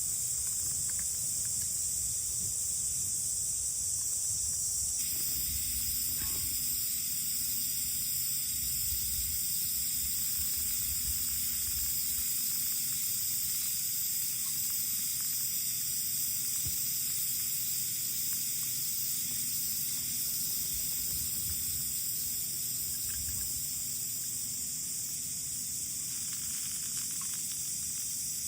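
Wind buffeting the microphone in uneven low gusts, under a steady high hiss that changes abruptly about five seconds in.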